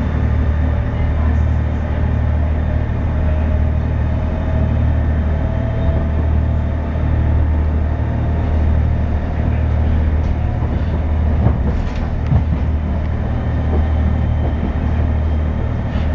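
Moving passenger train heard from on board, a steady low rumble with a few faint clicks about ten to twelve seconds in.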